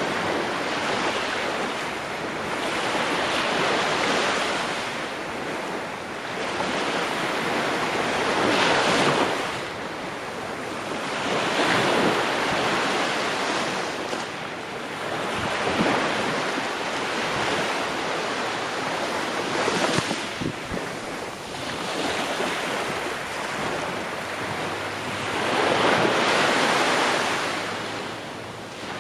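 Ocean waves breaking on the shore and washing back, each wave swelling and fading every three to four seconds.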